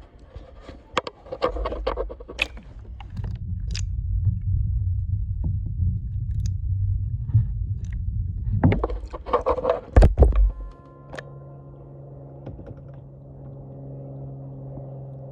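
Water splashing and knocking around a kayak, with a muffled low rumble in the middle and a loud splash about nine seconds in. After that a steady, even hum with several pitches sets in.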